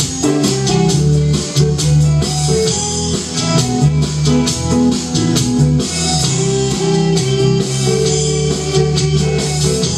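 A rock band playing an instrumental passage: guitars with bass and drum kit keeping a steady beat.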